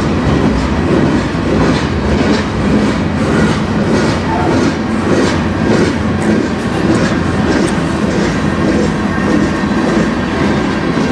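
Freight cars of a manifest train, a covered hopper and then tank cars, rolling past close by. Wheels clack repeatedly on the rails over a steady rumble.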